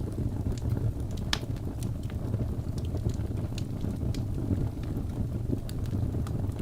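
Birch logs burning in a fireplace: a steady low roar of flame with frequent small crackles and pops, one sharper pop about a second and a half in.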